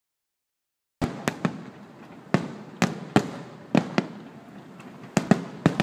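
Aerial fireworks shells bursting in a rapid barrage: about eleven sharp bangs, some in quick pairs, with crackling and rumble between them, starting about a second in.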